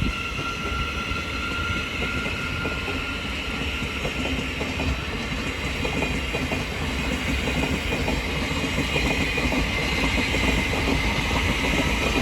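Thameslink Class 700 electric multiple unit pulling out of the station, a steady running noise that grows louder toward the end.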